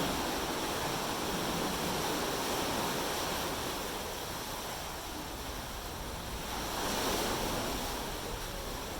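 Ocean surf washing in, a steady rushing that swells louder twice, over the first few seconds and again around seven seconds in.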